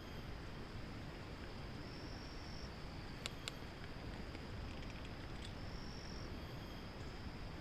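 Forest insects, crickets or cicadas, droning steadily at a high pitch over a low rustling hiss, with two sharp clicks a little past the middle.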